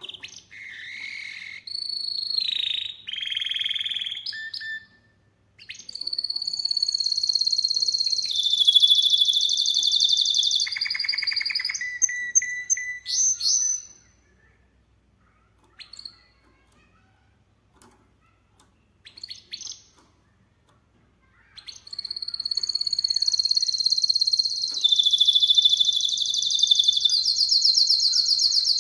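Domestic canary singing in long phrases of very rapid trills and rolls, with fast repeated high notes. The song breaks off for several seconds in the middle, where only a few short chirps are heard, then a long trilling phrase resumes about 21 seconds in.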